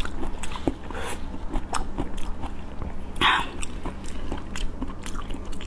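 Close-miked mouth sounds of chewing a shell-on prawn: irregular wet clicks and small crunches, with one louder, longer mouth sound a little over three seconds in.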